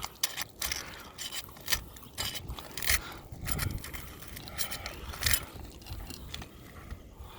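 Asphalt shingle being pried up from the roof, with irregular sharp scrapes and cracks as its sealant bond is broken.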